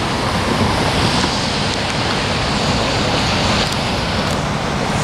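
Diesel locomotive hauling a passenger train as it approaches: a steady rumble of engine and wheels on the rails, with a hiss over it.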